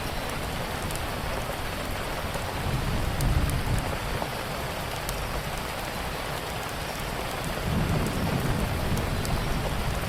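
Steady heavy rain, with low rolls of thunder swelling about three seconds in and again near the end. Faint sharp ticks of a crackling wood fire come through the rain here and there.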